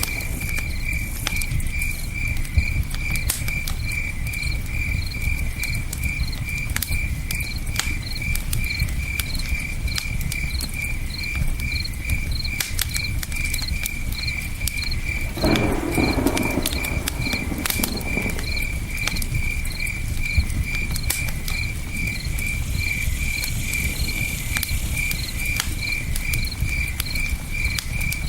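Campfire crackling with scattered sharp pops, over a steady low rush of river water, while crickets chirp in a continuous, evenly pulsing high trill. About halfway through, a louder rushing swell lasts a few seconds.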